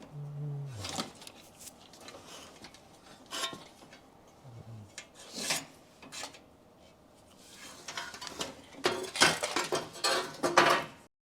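Metal clinks, scrapes and rattles of hand tools and parts being worked on during car disassembly. They are scattered at first, then grow to a busier, louder clatter in the last couple of seconds before cutting off suddenly.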